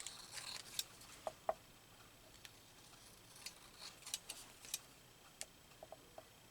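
Scattered light clicks and taps, with a brief rustle near the start, from craft supplies and paper being handled on a work table.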